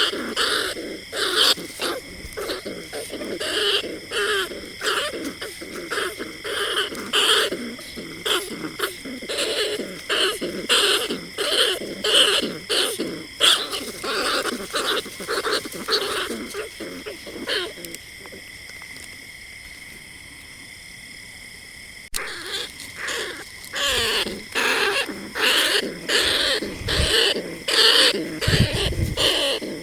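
Bandicoot rat calls: rapid repeated squeaking and chattering, stopping for about four seconds a little past the middle and then starting again.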